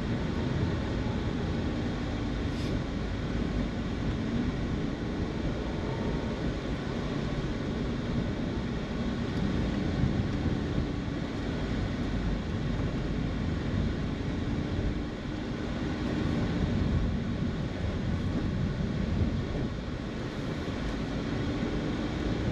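Steady engine and road noise heard from inside a moving car, with a low engine hum that drifts slightly up and down.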